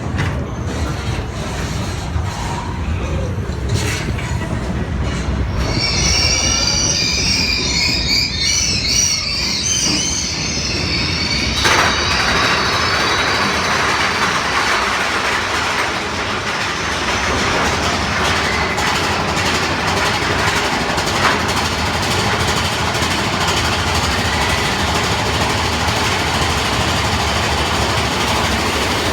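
Mine-train roller coaster cars running on their track, rumbling and clattering. About six seconds in a high wavering squeal sounds for several seconds. From about twelve seconds a steady rushing noise takes over as the train runs at speed.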